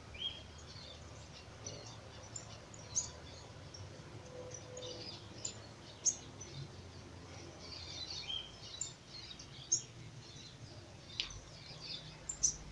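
Faint bird chirps in the background: short, high-pitched calls scattered every second or so, a few of them gliding in pitch, over a faint low hum.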